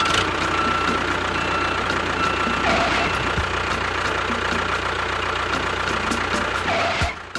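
A small engine running steadily at an even level, with a faint high whine.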